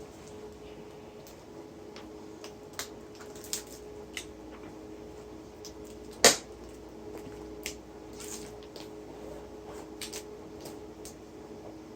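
Scattered light clicks and knocks, with one sharp, loud knock about six seconds in, over a steady low hum.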